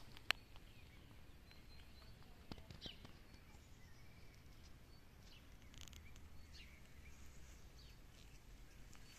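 Faint, scattered bird chirps over a quiet background, with a single sharp click just after the start.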